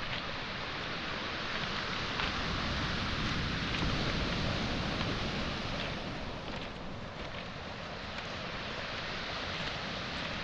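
Waves breaking and washing up a pebble shore: a steady rush that swells a few seconds in and eases after about six seconds, with a few faint pebble clicks.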